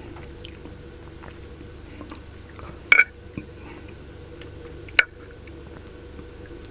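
Close-up chewing and eating sounds from a mukbang meal of pork sinigang. Two sharp clicks sound about three and five seconds in, the first with a brief ring.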